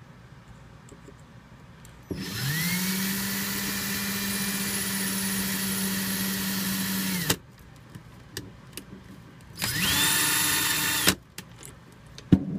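Electric drill boring into the plastic flow restrictor inside a pull-out faucet spray hose, drilling it out to open up the water flow. The drill spins up with a rising whine, runs steadily for about five seconds and winds down, then runs again briefly for about a second and a half, followed by a few sharp knocks near the end.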